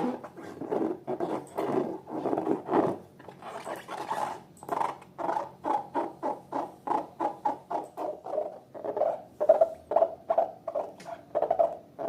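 Slime being squished and worked by hand, a run of short wet squelching clicks that settles into roughly three a second after the first few seconds.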